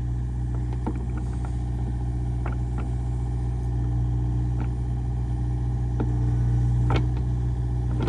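A heavy vehicle's engine running steadily at low speed, with a few faint knocks and clinks scattered through it.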